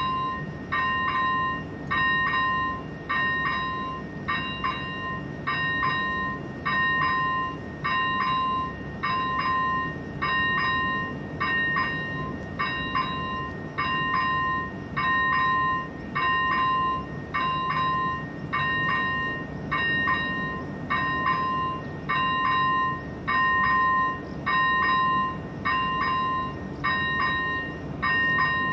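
Level crossing warning bell ringing steadily, one two-note ding about every second, signalling that the barriers are closed and a train is approaching. A steady low rumble runs beneath.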